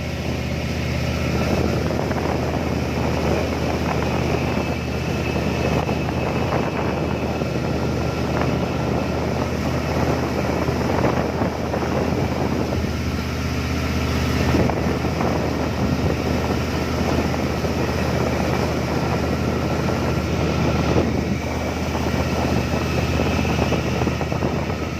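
Boat engine running steadily, a low continuous drone, with wind buffeting the microphone.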